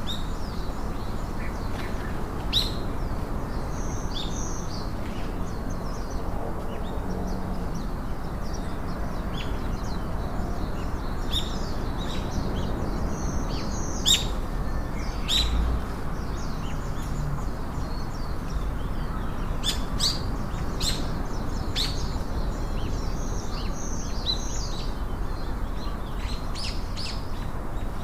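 Wild birds chirping and calling in many short, scattered notes, several at once, over a steady background hiss.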